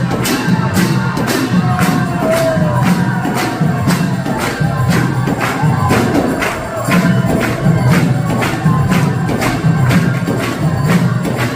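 Kirtan music: a mridanga drum playing a steady rhythm, with bright metal hand cymbals struck about two to three times a second.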